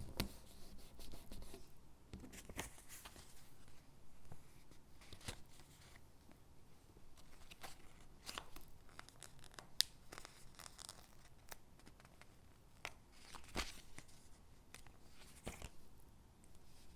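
Stickers being peeled off their backing sheet and pressed onto paper cutouts: irregular soft peeling rustles and light taps, with one sharp click just before the middle.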